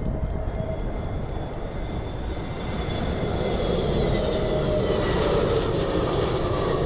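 Jet airliner engines passing, a steady rush with a whine that slowly drops in pitch, over a low rumble of wind.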